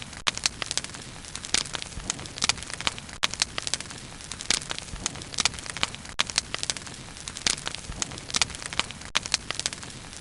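Bonfire burning, wood crackling and popping irregularly over a steady low rush of flame.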